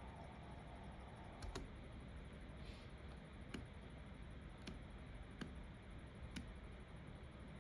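Sparse single clicks from computer work: about six, with two close together about a second and a half in and the rest spaced roughly a second apart, over a faint steady background hum.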